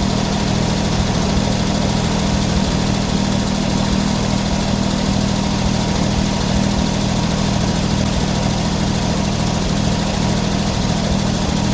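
Sawmill engine running steadily at an even speed, with a regular low pulsing and no change in pitch or load.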